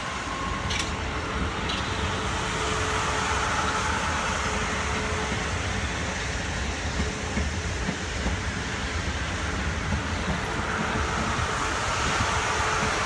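South West Trains Class 450 Desiro electric multiple unit running past on the tracks: a steady rumble of wheels on rail with a faint steady tone above it.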